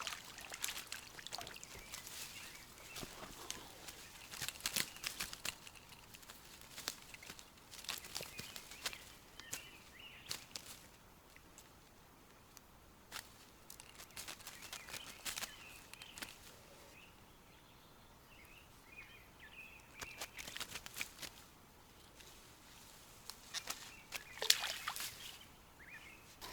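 Irregular rustling and clicking of someone moving about and handling things outdoors, with faint short bird chirps now and then.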